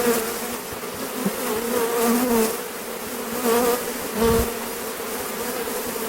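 Honeybees of a very strong, opened colony buzzing loudly: a steady drone with a wavering pitch. A low thump about four seconds in.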